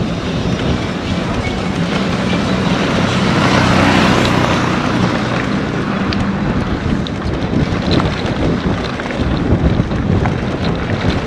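Wind rushing over the microphone of a handlebar-mounted camera on a moving bicycle, a steady loud rush that swells about four seconds in.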